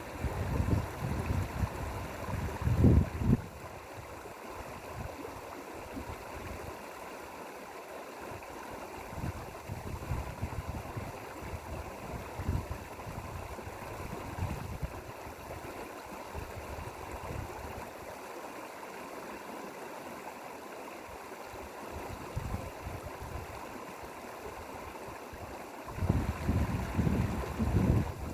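Mountain valley stream flowing, a steady rushing of water. Low gusts of wind buffet the microphone at the start and again near the end.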